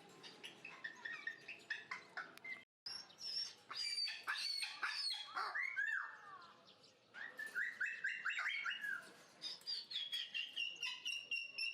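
Several birds chirping and whistling in a busy mix of calls, with a brief cut in the sound about three seconds in. Near the end one bird repeats short notes rapidly at a steady pitch.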